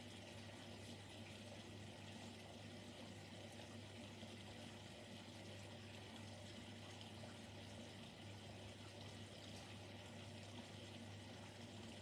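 Siemens Siwamat Plus 574 washing machine taking in water for a rinse: a faint, steady rush of water into the drum over a low hum.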